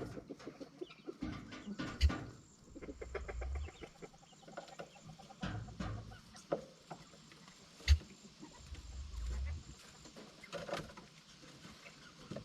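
Quail clucking and chirping, with scattered rustling and two sharp knocks, one about two seconds in and one past the middle.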